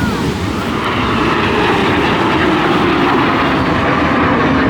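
An aircraft flying over at an airshow, its engine noise a loud, steady rushing sound.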